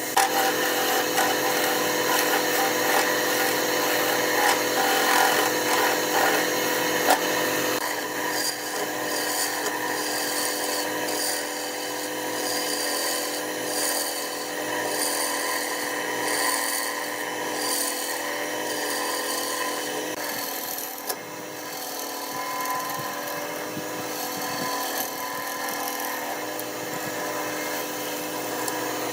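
Wood lathe running steadily while a cutting tool scrapes the spinning wood. From about a third of the way in, a faint regular tick comes a little more than once a second.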